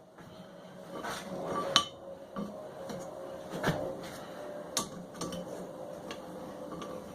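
Small hand-forged steel pieces clinking and knocking as they are handled and set down against each other on a bench: a few separate sharp clinks, the loudest about two seconds in.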